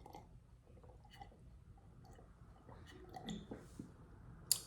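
Faint chewing and mouth sounds from someone eating a seafood boil, with a few small clicks and one sharp click near the end.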